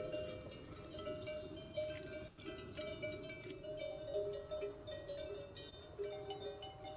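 Livestock bells clanking and ringing at several different pitches, many small strikes overlapping continuously, as on a moving herd of goats or sheep.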